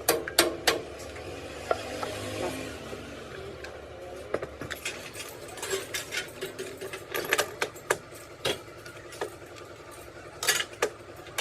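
Small metal parts and tools clinking and tapping at irregular intervals during work on a diesel injection pump, with short metallic rings.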